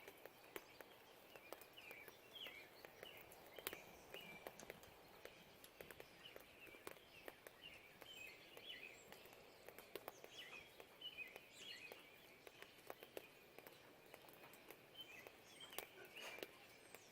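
Faint birdsong at dawn: many short chirps keep coming, mixed with scattered ticks of falling raindrops.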